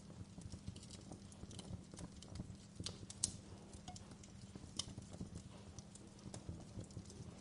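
Wood fire crackling: irregular pops and snaps over a steady low rumble of the flames, with the sharpest snap about three seconds in.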